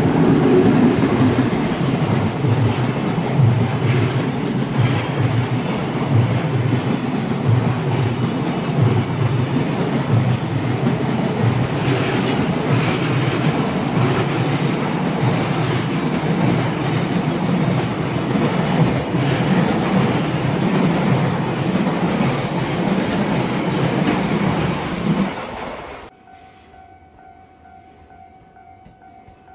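A JR Tokaido Main Line train passing close by for about 25 seconds, its wheels clattering rhythmically over the rail joints. The sound cuts off abruptly near the end, leaving a faint steady tone.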